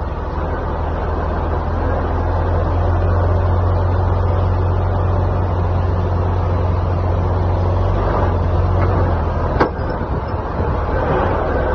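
A semi truck running down the road, with a steady low drone and a single sharp clunk near the end, with a couple of fainter knocks just before it. This is the kind of driveline clunking that can be a sign of worn U-joints, a damaged driveshaft or a failing differential or transmission.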